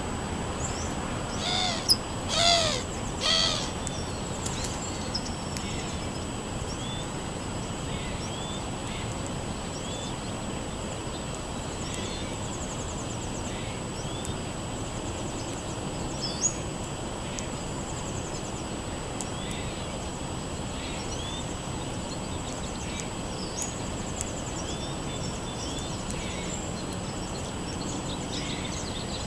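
Birds calling outdoors: three loud, harsh calls in quick succession near the start, then a songbird's short chirps repeating every second or so.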